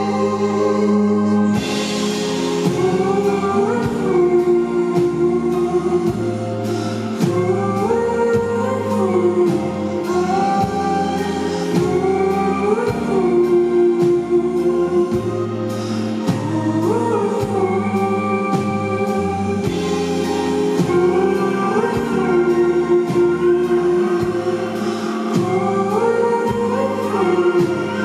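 Live band performing a song: singing over a full band, with steady low bass notes and a regular drum beat.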